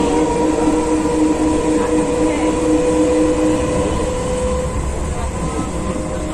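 Electric suburban local train (EMU) running at speed: a steady rumble with a constant hum of a few fixed tones, one of which fades about four seconds in.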